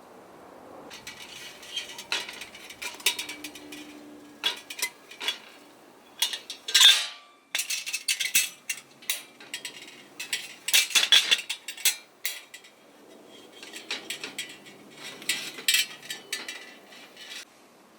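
Metal camping kettles and their lids and handles being handled, with irregular clinks and knocks of metal on metal. The loudest is a brief scrape about seven seconds in.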